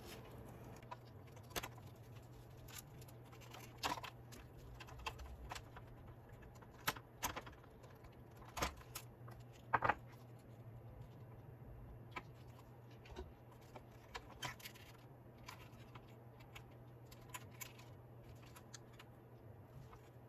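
Scattered light clicks and taps of small parts and tools being handled while a gyro stage mechanism is taken apart, the loudest about seven and ten seconds in, over a steady low hum.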